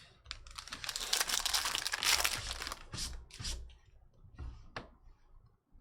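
A foil trading-card pack wrapper being torn open and crinkled, a dense crackling rustle for about three seconds, followed by a few light clicks and rustles as the cards are handled.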